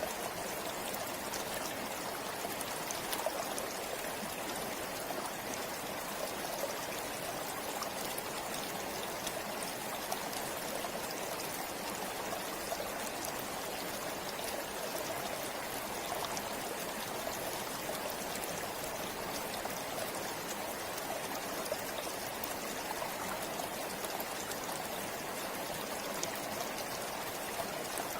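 Forest river flowing steadily: an even rush of water with small splashes and droplets scattered through it.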